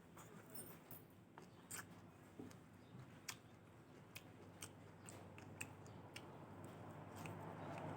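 Quiet close-miked eating sounds: chewing with an irregular string of sharp, crisp clicks as food is bitten and chewed.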